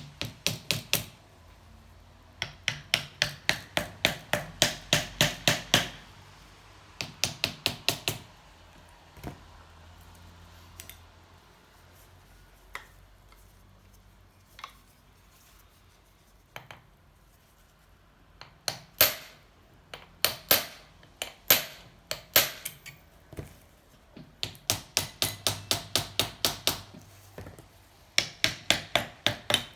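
Hand hammer striking metal in quick runs of about four to five blows a second, with pauses and a few louder single blows in the middle. The hammering is working at a seized engine cylinder to free it.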